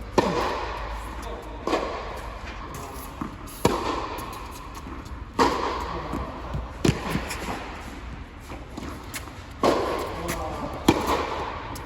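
Tennis rally: a ball struck back and forth with racquets, sharp hits about every one and a half to two seconds, each followed by a short ring.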